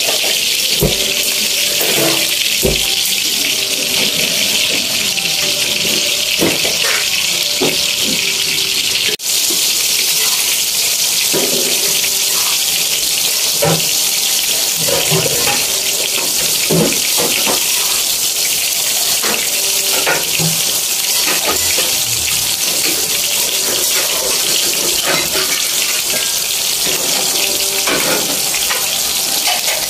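Steady sizzling hiss of pancit noodles and vegetables frying in a wide aluminium wok, with scattered scrapes and knocks of a fork stirring against the pan.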